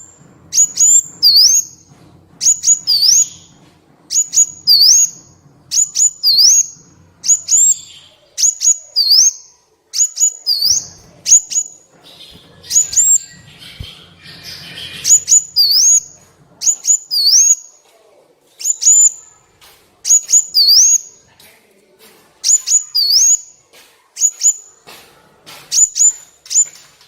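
Sunbird calling over and over: sharp high chirps about once a second, each a quick swoop down and back up in pitch, often in twos.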